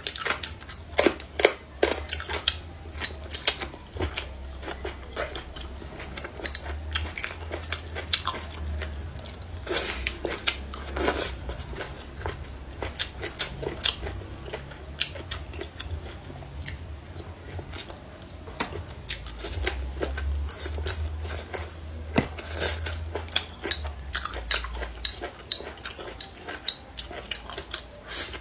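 Close-up chewing and biting of crunchy toon sprouts and shredded papaya, an irregular run of crunches and wet mouth clicks.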